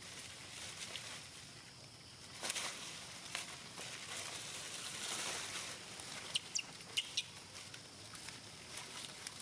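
Outdoor ambience with rustling and scattered clicks, and a quick run of four or five short high squeaks about six to seven seconds in.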